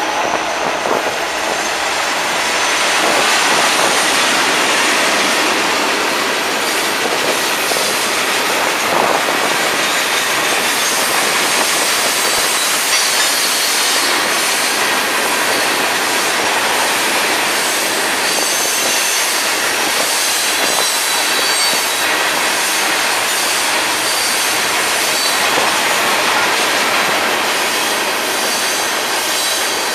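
A loaded freight train's cars rolling past steadily: a continuous rush of steel wheels on rail, with a thin, high wheel squeal coming and going.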